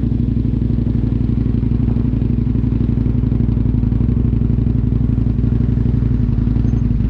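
Aprilia Tuono V2 1000's V-twin engine idling steadily with a fast, even pulse and no revving.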